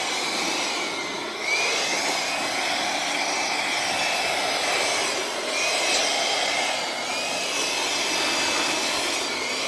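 Steady rushing air from an electric motor-driven fan or blower, with a high whine that wavers and slides up and down in pitch.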